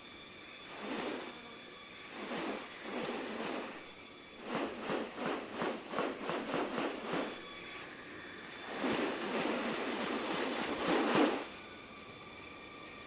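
Steady, high-pitched drone of rainforest insects. Over it come a series of harsh, noisy bursts: single ones early, a quick run of about eight in the middle, and a longer burst near the end.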